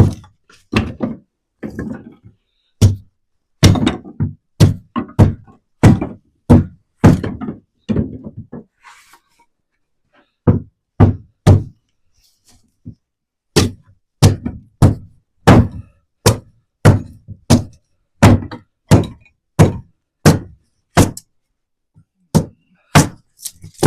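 Kindling wood being chopped: a steady run of hard wooden chops, about two a second, with a pause of about two seconds near the middle.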